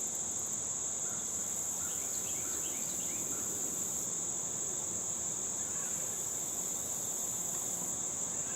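A steady, high-pitched insect trill, like crickets, holds unbroken throughout, with faint short chirps now and then.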